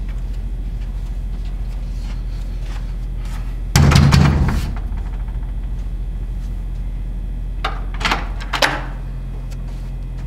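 A heavy thud about four seconds in, then three sharp knocks on a door a few seconds later, over a steady low hum.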